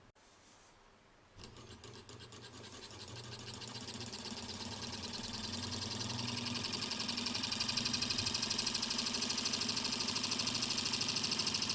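Sieg HAE04 model Stirling hot-air engine running, a fast, even mechanical clatter of its piston and linkage. It starts suddenly about a second in, grows louder over several seconds, then holds steady.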